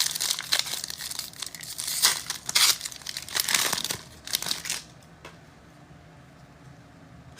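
Plastic wrapper of a trading card pack being torn open and crinkled for nearly five seconds, then stopping.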